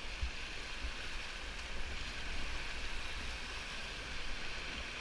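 Rushing whitewater of a river rapid: a steady hiss of churning water, with a low rumble underneath.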